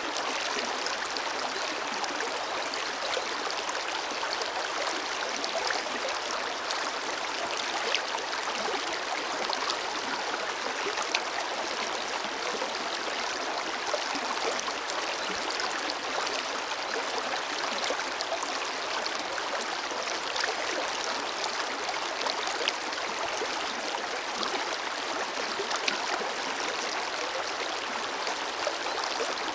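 Forest river flowing steadily over rocks: an even rushing of water with small splashes and gurgles.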